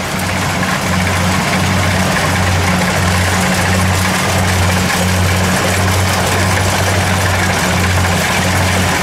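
Kubota DC70 combine harvester's diesel engine and threshing machinery running steadily during rice harvesting: a loud, low hum that throbs about twice a second, over a steady mechanical hiss.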